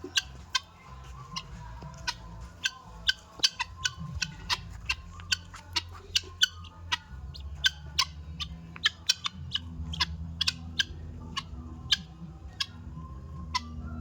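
Helmeted guinea fowl calling: a run of short, sharp, harsh calls, about three a second, overlapping irregularly as from several birds.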